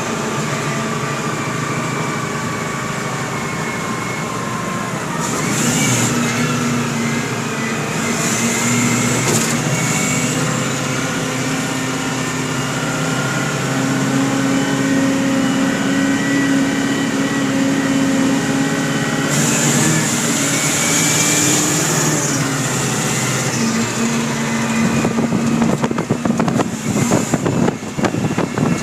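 Caterpillar mining haul truck's engine running, its pitch rising and falling, with a few short bursts of high hiss. A dense rattling starts near the end.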